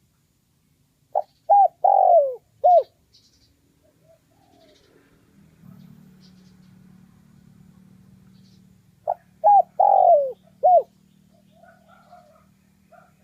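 Spotted dove cooing: two four-note phrases about eight seconds apart, each two short coos, a longer falling coo and a short final coo. A faint low hum runs under the middle part, and faint chirps of another small bird come near the end.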